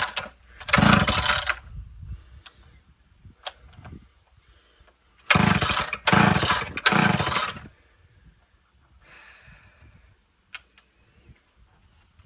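Homelite XL chainsaw being pull-started: four hard pulls of the recoil starter, one about a second in and three in quick succession near the middle, with the engine turning over but not catching. The owner thinks it is badly flooded.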